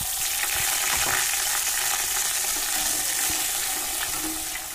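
Ginger-garlic and onion paste sizzling steadily in hot oil in a kadhai, with a spatula stirring it.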